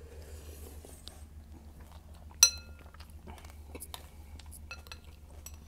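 Close-up chewing of a mouthful of cereal, with small wet crackles, over a steady low hum. About two and a half seconds in, a metal spoon clinks sharply against the bowl and rings briefly; this is the loudest sound.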